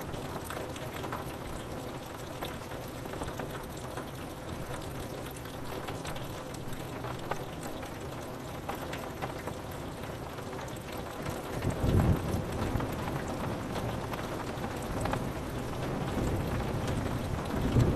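Steady rain pattering on a window pane, with scattered individual drop ticks. About twelve seconds in, a low rumble of thunder swells and fades, and another rumble begins at the very end.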